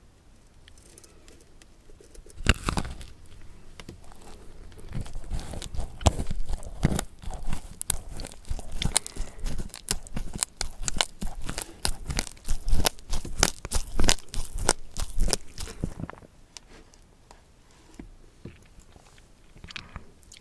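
Close-miked crunching and chewing of crisp food: a sharp first bite about two and a half seconds in, then a long run of crunchy chews that thins out and stops about four seconds before the end.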